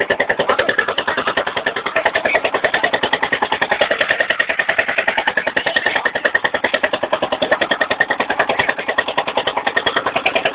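Small motorcycle engine idling with a steady, rapid putter of about ten beats a second.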